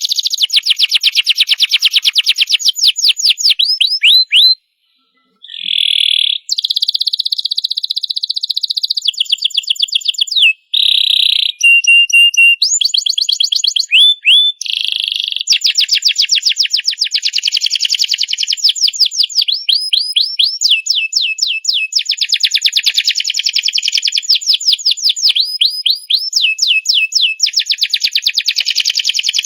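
Domestic canary singing a long, unbroken song of fast trills and rapid repeated high notes, with a short pause about five seconds in.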